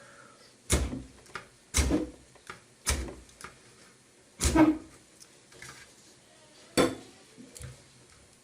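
A ferrocerium rod struck with a metal striker five times at uneven intervals, each stroke a short, sharp scrape that throws sparks at a damp wood-shaving fire starter dusted with magnesium shavings.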